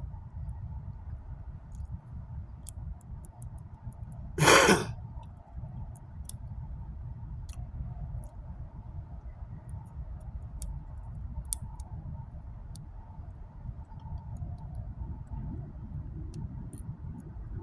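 A person sighing, one short forceful breath close to the microphone about four and a half seconds in, over a steady low rumble with scattered faint clicks.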